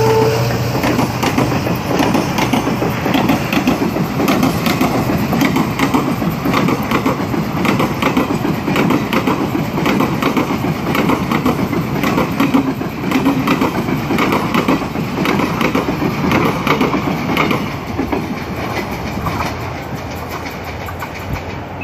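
Passenger express coaches rolling past on the rails, their wheels clattering over the rail joints above a steady rumble. The sound fades over the last few seconds as the train moves away.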